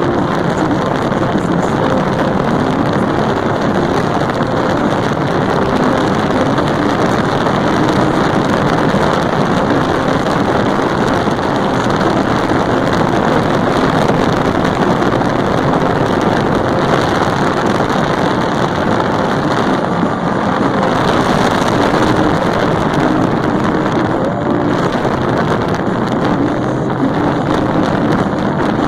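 Motorcycle running steadily at road speed, its engine note half buried under heavy wind noise on the microphone.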